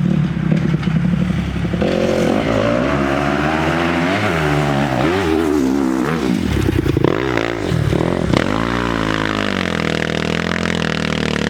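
Dirt bike engine revving under load, its pitch rising and falling again and again as the throttle is worked.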